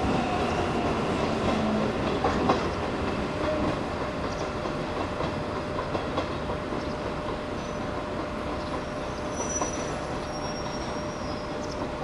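Train running on the rails, the wheels clicking over rail joints, with faint high wheel squeal about three-quarters of the way through.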